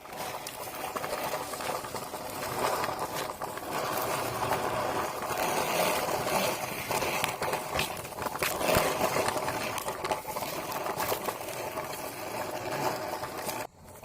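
Small electric motor whirring steadily, with some rattling.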